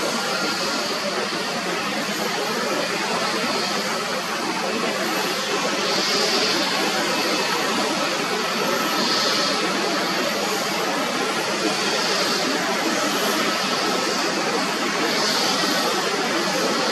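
Jet airliner engines, a steady loud roar of noise, with a brief higher swell every few seconds.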